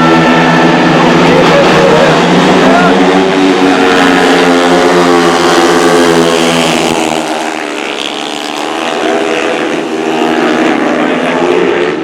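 Several speedway motorcycles racing, their single-cylinder engines running hard, the pitch rising and falling as they go through the turns. The sound drops back for a couple of seconds past the middle, then comes up again as the bikes come round.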